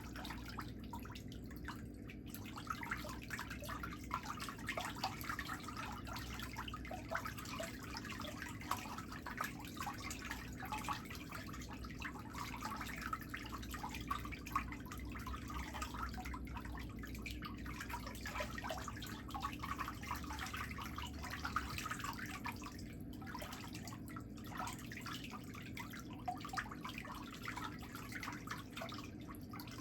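A file scraping over an artificial toenail repair, with many quick, irregular scratchy strokes over a steady low hum.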